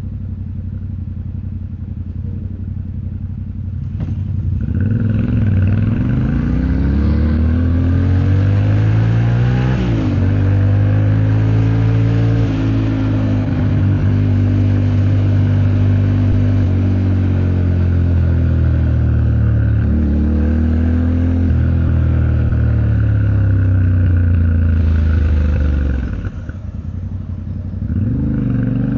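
Yamaha Ténéré 700's parallel-twin engine pulling hard from low revs about four seconds in, with a quick dip and rise in pitch as it shifts gear, then running at steady revs. Near the end the throttle closes briefly before it accelerates again.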